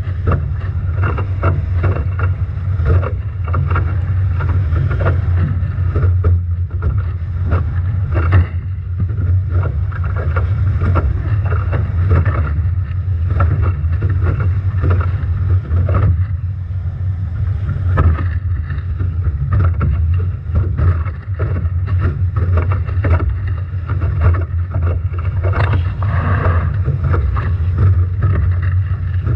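Strong wind buffeting the microphone of a camera on a Nacra 17 foiling catamaran sailing hard through heavy waves, a loud constant rumble broken by frequent short splashes and crackles of spray and water hitting the boat.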